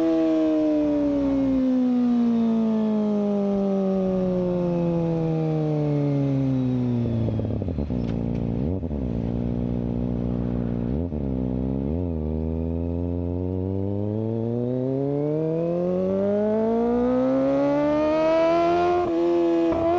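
Kawasaki Ninja ZX-25R's 250 cc inline-four engine through its exhaust, the revs falling smoothly over several seconds to a low note, dipping briefly twice, then climbing slowly back to high revs near the end.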